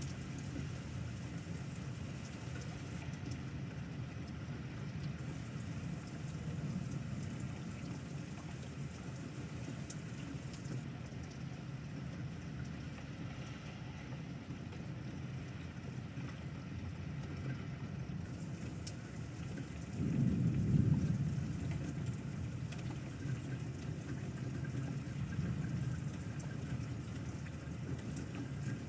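Steady rain falling, with a low rumble of thunder that swells about twenty seconds in and fades over a couple of seconds.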